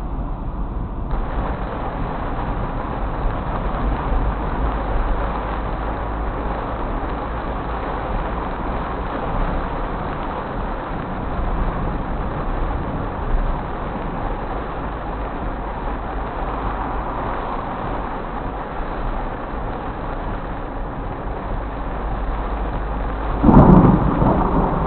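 Heavy rain on a moving car, mixed with tyre and road noise, as a steady rush. A loud crack of thunder near the end.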